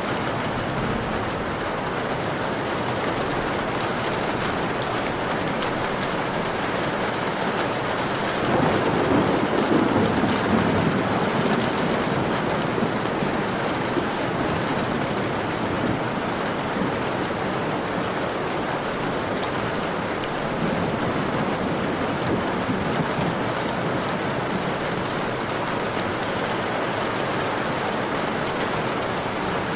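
Steady rain pattering on a window pane. A low rumble of thunder swells about nine seconds in and dies away over a few seconds, and a fainter rumble follows around twenty seconds in.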